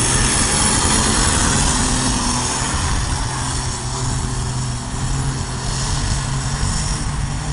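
Pulling tractor's engine running hard at full power during its pass down the track, with a high steady whine over the engine note. It gets slowly quieter and drops off near the end.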